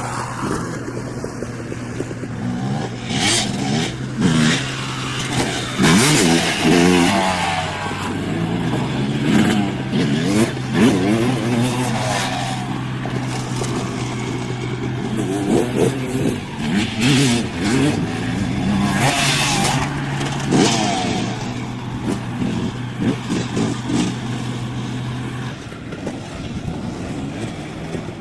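Dirt bike engines revving up and dropping off again and again as the bikes ride the track, over a steady low hum.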